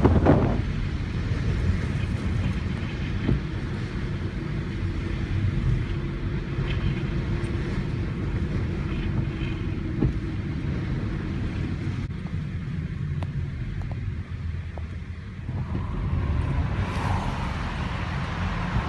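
Storm wind buffeting the microphone as a steady low rumble, with a louder gust at the start and a faint steady hum through the middle.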